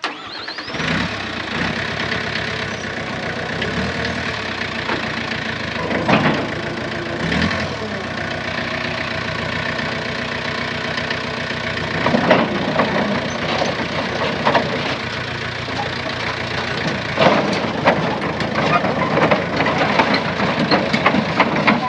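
Diesel engine of heavy earthmoving machinery running steadily, with irregular metallic clanks and knocks that come more often in the second half.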